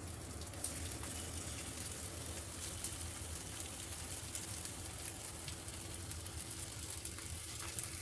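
Egg-coated pumpkin flowers frying in oil in a nonstick pan: a steady sizzle with small crackles, over a low steady hum.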